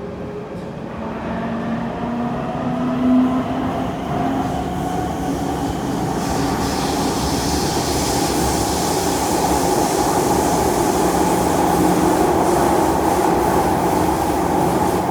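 Kawasaki C151 metro train accelerating away from a station in a tunnel, heard from inside the car: traction motor tones climb in pitch over the first few seconds, then give way to loud, steady wheel and tunnel running noise that grows as the train gathers speed. The uploader calls the traction motors' sound profile bad.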